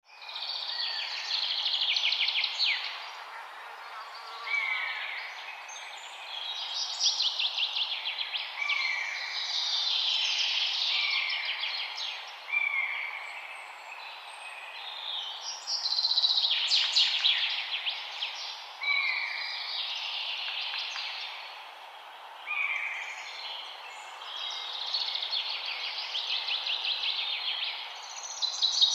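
Songbirds singing repeated short phrases of rapid trills and downward-sliding notes, a new phrase every couple of seconds, over a steady rush of flowing river water.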